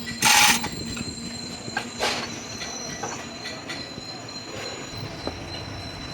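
A steady, high-pitched metallic squeal or whine from workshop machinery. A short, loud hiss comes just after the start, and a sharp metallic knock about two seconds in.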